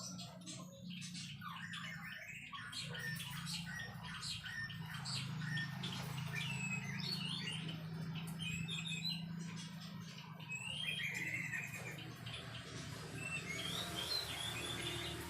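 White-rumped shama (murai batu) singing a varied run of quick chirps and short whistled slides.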